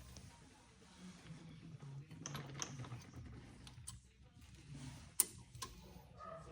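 Light clicks and taps of small metal brake parts being handled and tried in place, with one sharper click about five seconds in.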